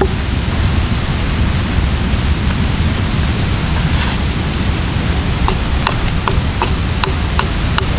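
Steady loud rushing noise with a strong low rumble, typical of wind on the microphone, and from about halfway through a series of light, sharp axe knocks on wood, roughly two a second.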